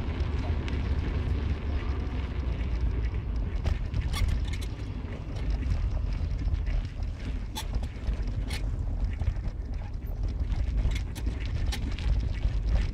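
Car on the move: a steady low rumble of road and engine noise, with scattered light clicks and rattles.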